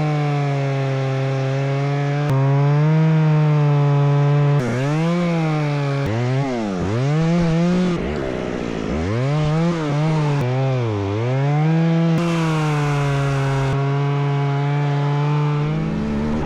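Chainsaw running at high revs while cutting through a downed tree; its pitch holds steady, then dips sharply and recovers several times in the middle before settling again.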